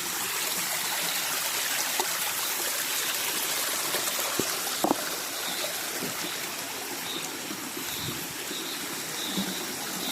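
Rainforest stream flowing and trickling steadily, with a few short knocks or splashes, the loudest about five seconds in. Faint high chirps repeat in the second half.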